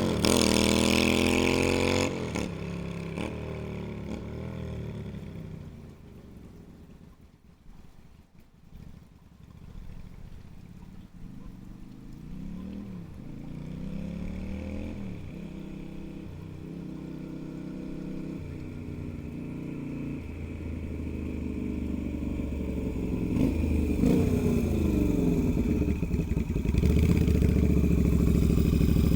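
Yamaha Virago 250 V-twin motorcycle engine revving. It is loud at first with a falling pitch, then fades to faint over several seconds with a few faint rises and falls in pitch. It grows loud again near the end.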